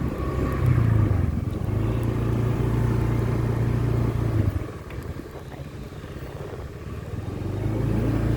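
Motorbike engine running while riding, a steady low hum. It drops away about halfway through and comes back near the end.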